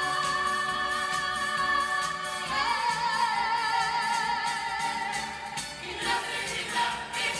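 Choir singing a 1970s pop song live, holding long notes over a steady drum beat; the chord changes about two and a half seconds in and the singing becomes busier near the end.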